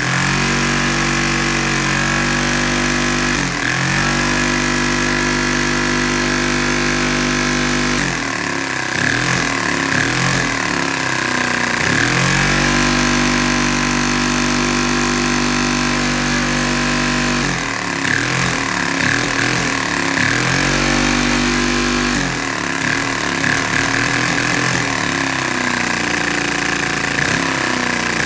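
Vacuum cleaner motor running with a steady pitched whine. Its pitch dips briefly and climbs back several times, and in places it wavers unevenly.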